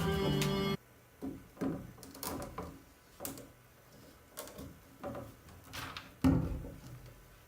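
Music that cuts off under a second in, followed by a series of irregular knocks and clatters, like objects being handled and set down, with one heavier thud near the end.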